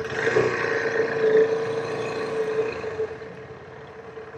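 A motor vehicle's engine running with a steady hum, louder for the first three seconds, then fading.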